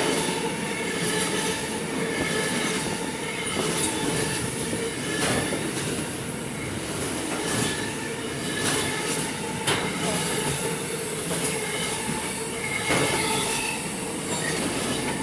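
Train rolling past on the line: a steady run of wheel-on-rail noise with squealing wheels and occasional sharp clacks over the rail joints.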